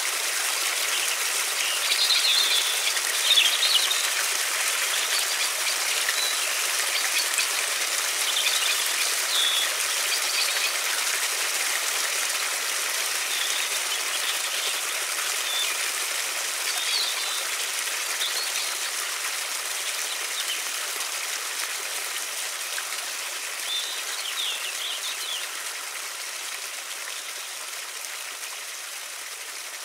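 Steady rushing of a river with short bird chirps scattered over it. The water noise fades gradually toward the end.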